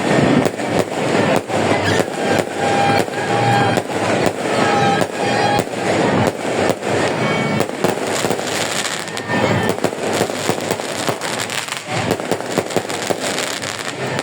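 Fireworks going off in a dense, rapid string of bangs and crackles, many per second with no letup. A few short pitched tones sound between the bangs a few seconds in.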